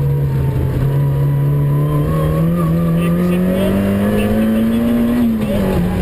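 Citroën AX GTI rally car's four-cylinder engine heard from inside the cabin, pulling under load with its pitch rising steadily for about five seconds, then falling near the end as the revs come down.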